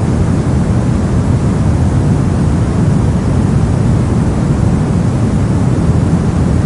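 Steady, unchanging soft noise for sleep and relaxation, with most of its weight low, a deep hiss without any tones or events.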